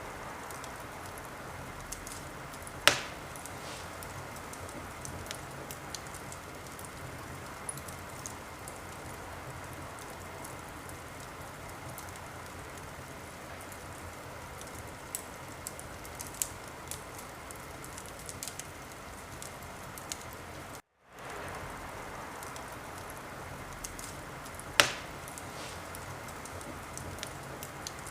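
Wood fire burning in a fireplace: a steady hiss with frequent small crackles and two loud sharp pops, one about three seconds in and one near the end. The sound drops out to silence for a moment about two-thirds of the way through.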